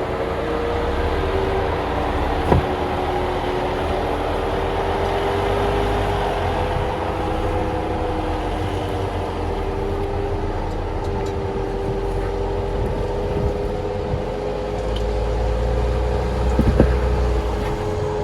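Jeep Wrangler driving slowly over a rocky trail: a steady engine and drivetrain hum with a slowly wavering whine and a low rumble, and a couple of sharp knocks, one about two and a half seconds in and another near the end.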